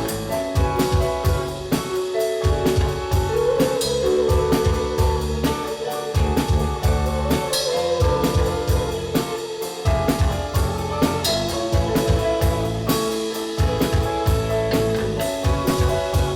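A band playing live: a drum kit keeps a steady beat under guitar, and a held, wavering lead line comes in a few seconds in.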